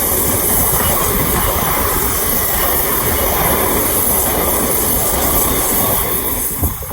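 A train passing close by, a loud steady rush and rumble of wheels on rail that drops away near the end.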